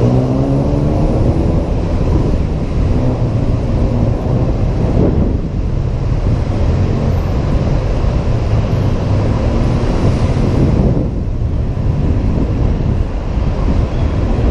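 Honda PCX 125 scooter's single-cylinder engine and its belt drive running under way, its pitch rising as it accelerates near the start and again about five seconds in, with wind rushing over the helmet-mounted microphone.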